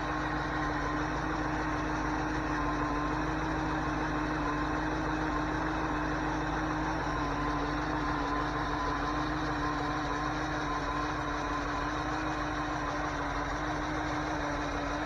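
A 1981 Ford 302 small-block V8 idling steadily while still cold, heard close to the engine, with the multiple ticking the owner hears from the front. The owner believes the engine is blown and takes the noise for rod knock.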